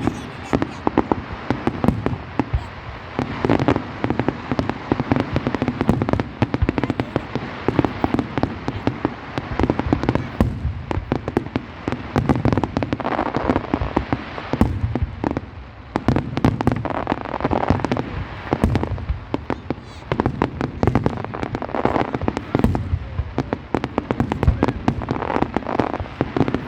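Fireworks display: a continuous barrage of bangs and crackling pops, many a second.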